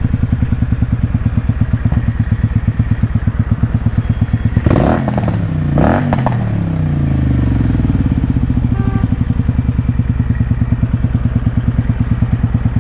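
Motorcycle engine running under way with an even, loping beat. About five seconds in there is a rush of noise while the engine's pitch drops and then climbs again as the revs change, before it settles back into the steady beat.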